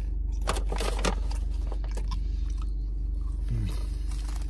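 A person biting and chewing French fries, with a few crisp crunches mostly in the first second and a short closed-mouth "mm" about three and a half seconds in, over a steady low hum inside the car.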